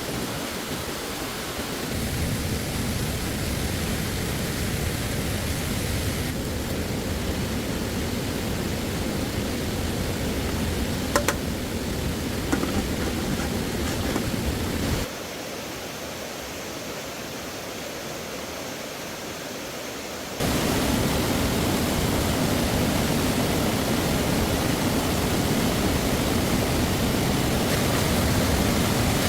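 Steady rushing of stream water, its loudness and tone changing abruptly a few times, with a sharp click about eleven seconds in.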